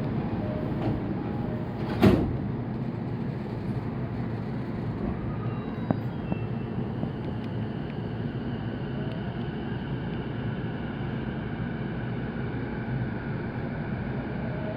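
Saikyo Line electric commuter train heard from inside the car: a steady rumble with one sharp, loud knock about two seconds in. Faint tones rise from about halfway through as the train picks up speed.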